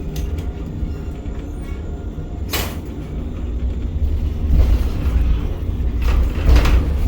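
Ship-to-shore gantry crane machinery running: a steady low rumble with creaks, a short hiss about two and a half seconds in, and two louder noisy surges near the end.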